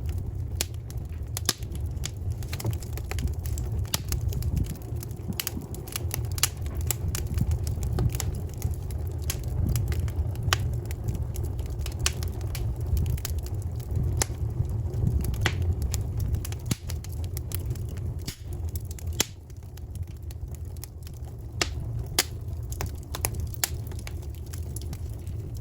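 Wood burning in a campfire, crackling with many irregular sharp pops over a steady low rumble.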